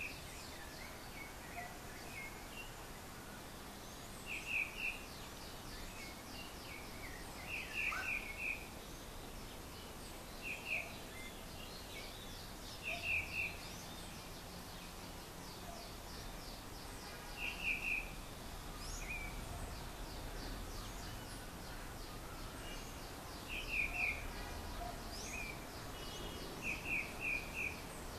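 Birds chirping: short calls in twos and threes, repeating every few seconds, over a steady outdoor background hiss, with a faint rapid ticking higher up through most of it.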